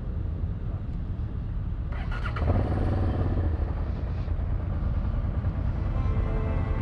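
Motorcycle engines running, with one revving up sharply about two seconds in.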